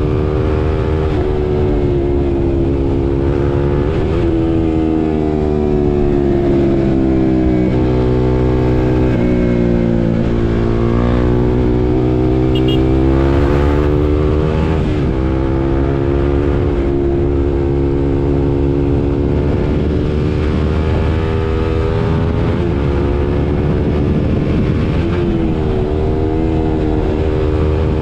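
KTM RC 390's single-cylinder engine running under way, its revs rising and falling several times, with sharp dips in pitch about four, eight, fifteen and twenty-five seconds in.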